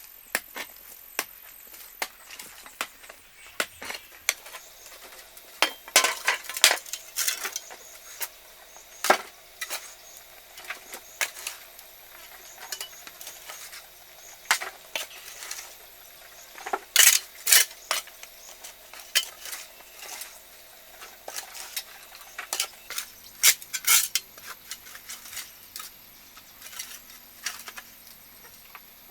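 Irregular clinks, scrapes and knocks of hard objects being handled, with clusters of sharper strikes about six, seventeen and twenty-four seconds in.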